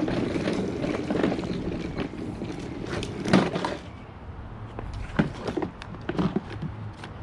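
Clunks and knocks of the pressure washer being handled and moved, the loudest knock about three seconds in and several lighter ones later, over a low steady hum.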